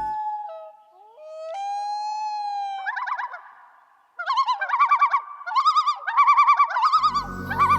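A bird calling: a long whistled note about two seconds in, then from about four seconds a run of loud, fast quavering trills in several phrases.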